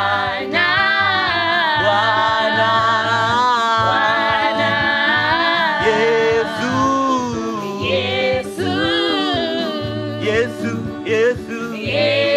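Swahili gospel worship singing: a voice holding long, wavering, drawn-out notes over a steady low instrumental bass accompaniment.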